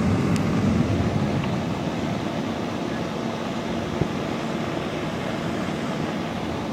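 Thunderstorm ambience: a steady low rumble of wind and distant thunder, easing slightly over the first couple of seconds, with a single sharp click about four seconds in.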